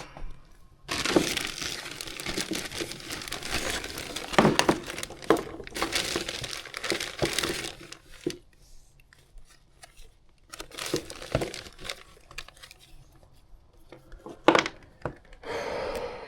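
Crinkling and rustling of packaging being handled, with scattered sharp clicks and knocks as tools and parts are moved about; the rustling comes in two long stretches with a quieter pause in between.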